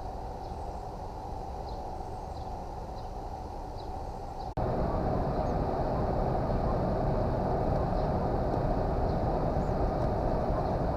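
Window air conditioner running with a steady whir, which steps up abruptly louder about four and a half seconds in. Faint, high, short chirps from Carolina wrens repeat every half second or so over it.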